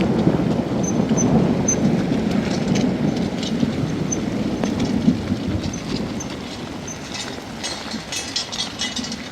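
A long low rumble of thunder over rain during a storm, easing off after about six seconds, with the crackle of rain continuing.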